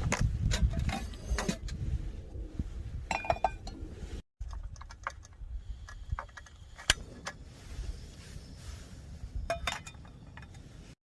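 Clinks and clicks of camp cookware and utensils being handled, a few short metallic rings among irregular sharp clicks, with a sudden brief cut to silence a little over four seconds in.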